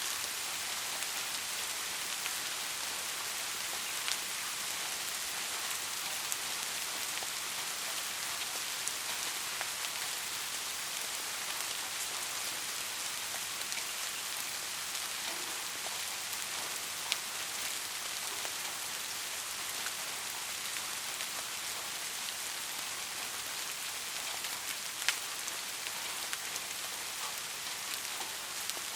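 Steady rain falling: an even hiss with a few sharper single drop ticks now and then.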